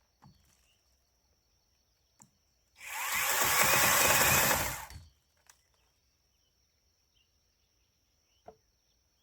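Angle grinder run in one burst of about two seconds, cutting into a log's saddle notch. It comes up to speed about three seconds in and winds down.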